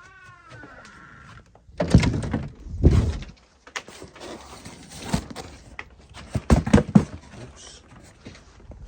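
A run of clunks and knocks with clicks in between, the two loudest about two and three seconds in. At the very start, a short squeak falling in pitch.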